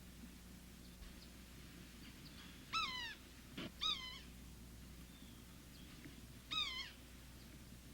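A bird calling three times, each call a short slurred note that falls in pitch, with a faint steady hum underneath.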